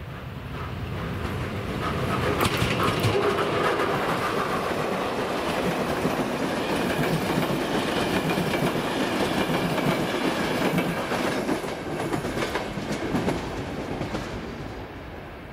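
Passenger train passing over a level crossing, its wheels clattering over the rail joints with scattered sharp clicks. The sound swells over the first couple of seconds, stays loud while the coaches go by, and fades near the end.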